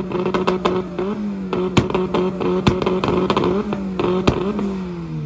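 Honda engine held on a two-step launch-control rev limiter, its exhaust popping and cracking sharply against the limiter. The revs dip briefly now and then, and near the end they fall away as the engine comes off the limiter.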